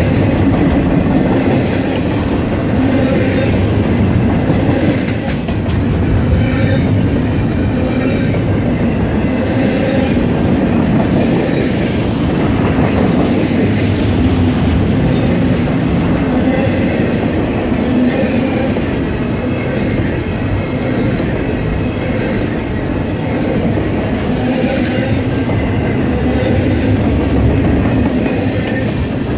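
Double-stack container train's well cars rolling past, a steady rumble of steel wheels on rail with clickety-clack and brief, faint wheel squeals now and then.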